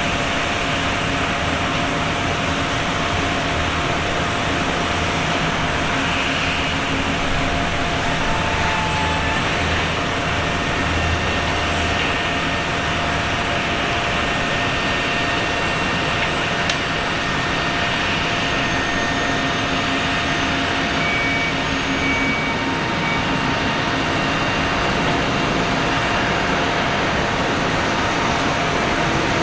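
Steady jet airliner noise: an even rush of engines and air with a faint steady whine running through it.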